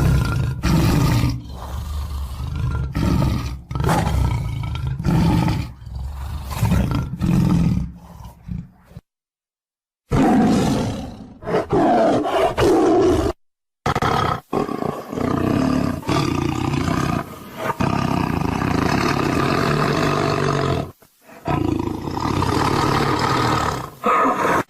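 Loud roaring from a large animal in repeated pulses, cut off abruptly twice by brief silences.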